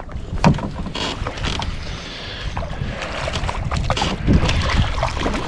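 Clicks and knocks of fishing gear being handled in a canoe, over a low rumble of wind on the microphone.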